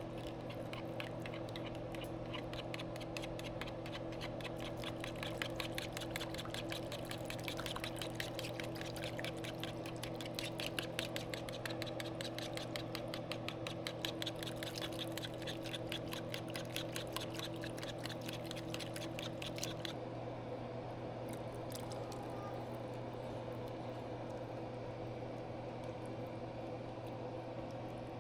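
Kitchen sounds over a steady electrical hum: a fast, dense run of small clicks that stops about two-thirds of the way through, leaving only the hum.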